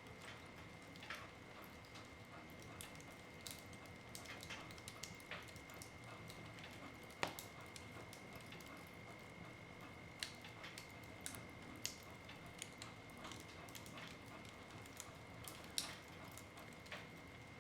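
Wood fire in a fireplace crackling: irregular small snaps and pops over a soft background, with a sharper pop about halfway through and another near the end.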